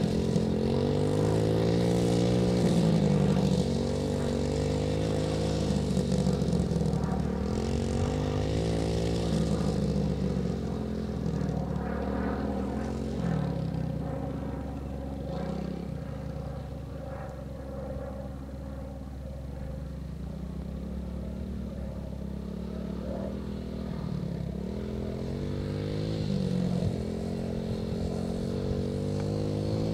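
Small dirt bike engine running under a beginner rider, its revs rising and falling again and again as she works the throttle. It gets somewhat quieter in the middle as the bike moves farther off, then louder again.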